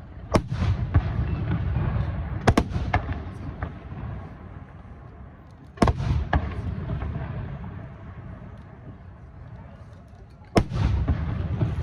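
Aerial firework shells bursting: sharp bangs, including a quick double bang, each followed by a low rolling rumble of echo. Smaller crackling reports come after some bursts.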